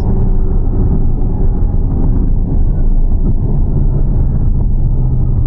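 Ferrari V12 engine running while driving, heard from inside the cabin with road and wind noise; a steady engine note comes through more clearly in the second half.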